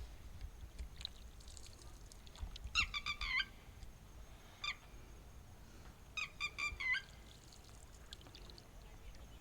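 Wetland birds calling: a quick run of four shrill, pitched calls about three seconds in, a single call a little later, and another run of about five calls past six seconds, over a faint low rumble.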